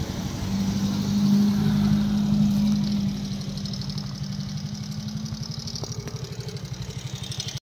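Motor vehicle engine running on the move with a regular pulsing beat. A steady engine hum from a car passing close by is loudest in the first three seconds, then fades.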